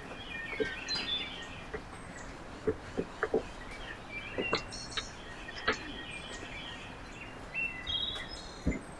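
Songbirds chirping and calling in short bursts, with scattered sharp taps and clicks throughout.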